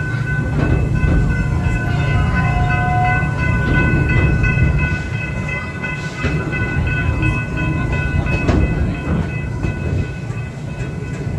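Park railway train rolling along the track: a steady low rumble with scattered clicks and clanks of the cars, and a steady high squeal held through most of the stretch.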